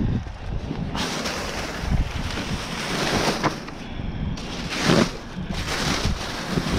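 Rummaging through bags of discarded items: plastic bags crinkling and rustling as things are pulled out, a hissy noise that swells and fades, starting about a second in.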